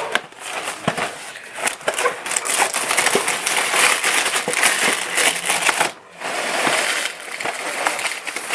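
Dry chocolate cereal being handled and poured, a dense crackling rattle that breaks off briefly about six seconds in.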